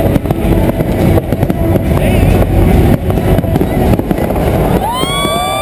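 Fireworks going off in rapid, overlapping volleys: a dense, loud rumble of booms and crackles. Near the end, a long held tone with a rising start comes in over it.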